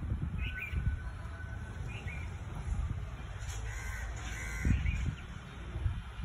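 Several short bird calls, one with a longer held note about half a second in, over a low rumble with irregular thuds.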